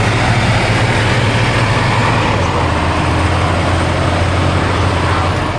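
Heavy off-road competition truck's diesel engine running hard and loud under load, its note dropping slightly about halfway through.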